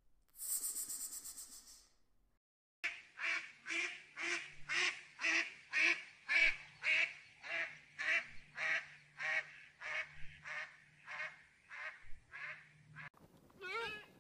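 A short hiss, then a long run of waterfowl honking calls, about two a second, evenly spaced and steady; near the end a wavering bleat begins.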